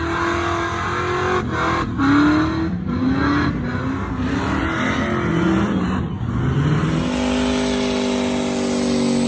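Truck engine revving, its pitch rising and falling several times, then held steady at higher revs for the last couple of seconds.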